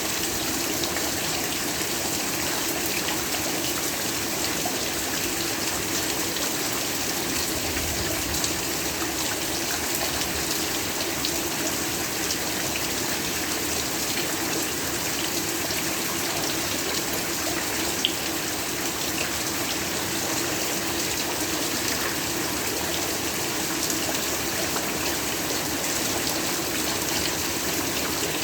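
Steady heavy rainfall, an even hiss of rain with scattered drop ticks and one sharper tick about two-thirds of the way through.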